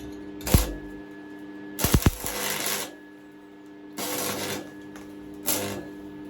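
Stick welder's arc crackling in four short bursts as weld is built up on thin steel, over the welder's steady electrical hum; a few sharp knocks come about two seconds in.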